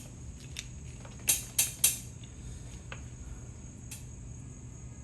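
A few sharp clicks and knocks of objects being handled, three of them close together about a second in, over a steady low hum and a steady high-pitched whine.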